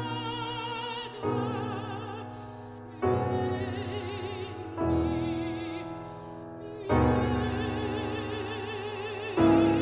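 Soprano singing sustained notes with vibrato over piano chords, a new chord struck about every two seconds.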